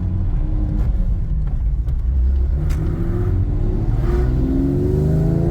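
Porsche 3.6-litre six-cylinder engine heard from inside the cabin, running steadily at low revs, then rising in pitch as the car accelerates from a little past halfway.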